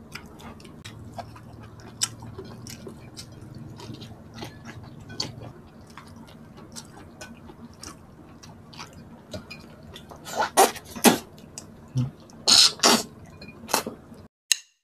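Close-miked eating sounds: many small wet mouth clicks and smacks of chewing, with a few louder smacks from about ten seconds in, then an abrupt cut.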